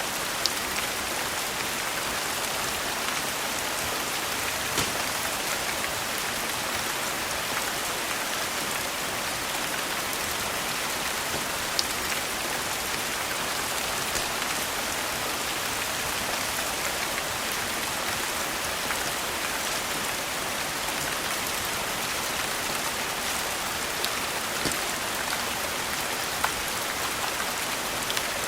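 Steady rain falling, with a few scattered sharp pops from a crackling wood fire.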